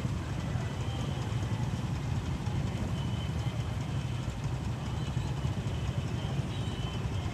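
Steady road noise of a motorcycle ride: wind rush on the microphone over the motorcycle's engine running at an even pace.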